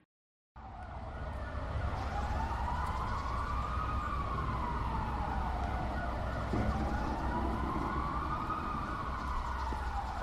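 A siren wailing, its pitch slowly rising and falling twice, over a low rumble like traffic. It starts about half a second in, after a brief silence.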